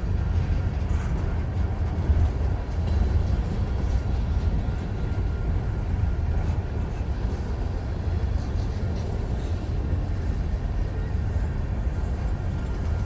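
Freight train rolling past slowly, a steady low rumble.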